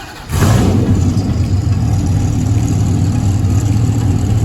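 A car or truck engine with a loud, deep exhaust fires up suddenly about a third of a second in and keeps running steadily and loud, being run for a loudest-exhaust sound-meter reading.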